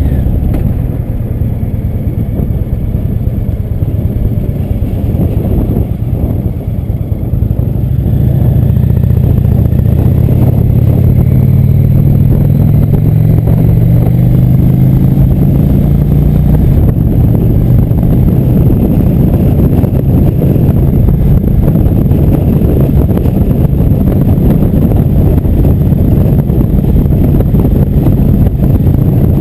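Motorcycle engine on the move: running quieter for the first several seconds, then accelerating from about eight seconds in with its pitch rising, and settling into a steady cruise for the rest.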